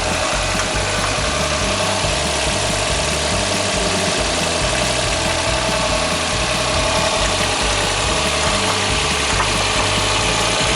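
CAT 303 mini excavator's diesel engine running steadily, with a constant whine over a rough low rumble.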